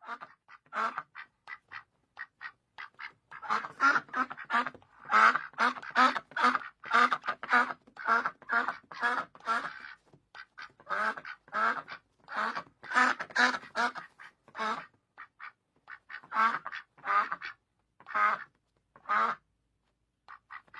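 Duck quacking in quick runs of short calls. The quacks are sparse and faint at first, come thick and loud from a few seconds in, pause briefly about ten seconds in, then resume in shorter bursts that thin out toward the end.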